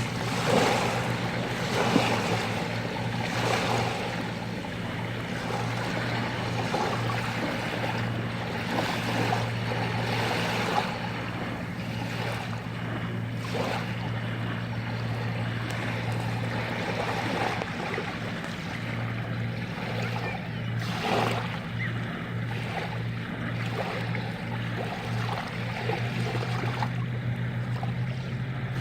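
Sea waves surging and washing over rocks, with a few louder surges, over a steady low hum.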